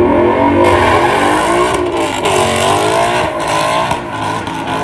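Ford Mustang's engine at full throttle, launching and accelerating down a drag strip. The engine note climbs, drops back at gear changes about two and three and a half seconds in, and grows fainter near the end as the car pulls away.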